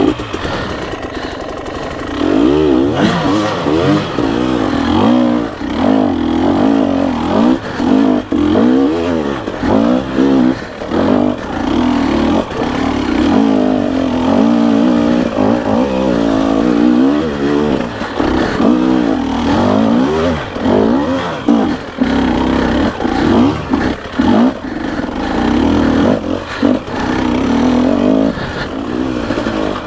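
Dirt bike engine revving up and down over and over in quick throttle bursts as the bike is worked hard over rough ground. Short clattering knocks come through now and then.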